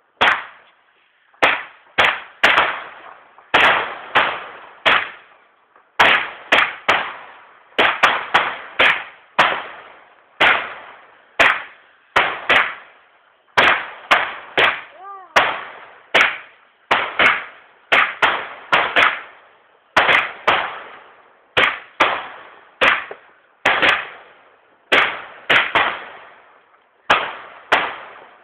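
A firework barrage: more than thirty sharp bangs going off one after another at irregular intervals, roughly one or two a second, each dying away briefly.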